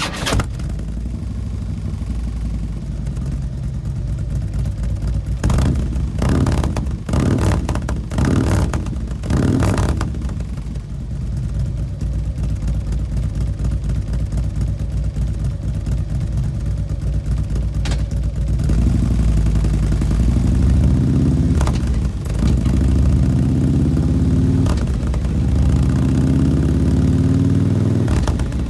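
Harley-Davidson Road Glide's V-twin running through an S&S Sidewinder 2-into-1 exhaust. It idles with a few sharp throttle blips about five to ten seconds in. From about two-thirds of the way in, the engine pitch climbs slowly, drops back and climbs again, twice.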